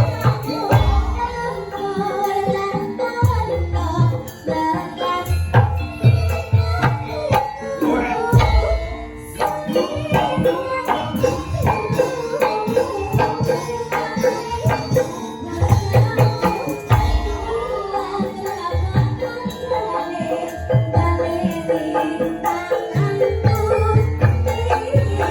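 Live Javanese campursari-style band music: a melody line over a steady beat of low drum hits and light jingling percussion.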